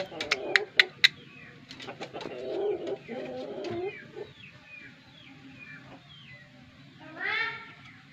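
Birds calling: many short high chirps, with about four sharp clicks in the first second and one louder call that rises and falls in pitch about seven seconds in.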